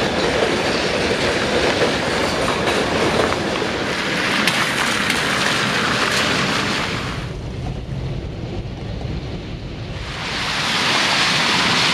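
Freight train rolling past, a steady rumble with wheels clattering on the rails. About seven seconds in it falls to a quieter low rumble, then swells again near the end.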